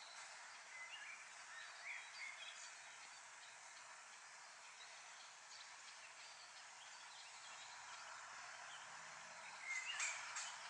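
Faint outdoor ambience: a steady hiss with scattered short, distant bird calls, and a louder call near the end.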